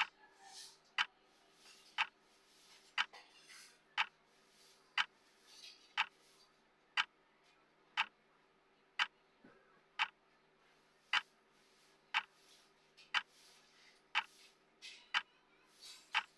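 Clock-style tick of a countdown timer, one sharp tick each second, over a faint steady hum.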